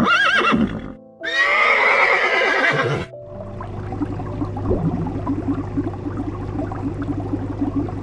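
Horse whinnying twice over soft background music: a short high call, then a longer, louder neigh that falls in pitch. After about three seconds it gives way to a steady low hum with a quick, regular pulsing.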